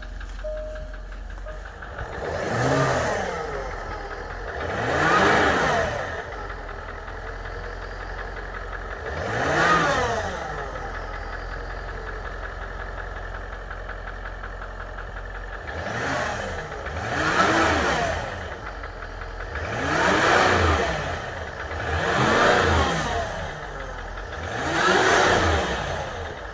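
Range Rover Vogue L405 engine idling and revved in short blips about eight times, each rising and falling back to idle, two of them close together near the middle and the rest spaced a couple of seconds apart. It is being checked for a knocking noise that the owner locates on the upper right side of the engine.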